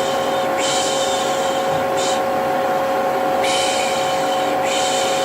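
Vacuum cleaner running steadily, its motor holding a constant whine, with a person's 'pish pish' shushing hiss laid over it: about four shushes, one very short and one longer, some of them broken by short gaps.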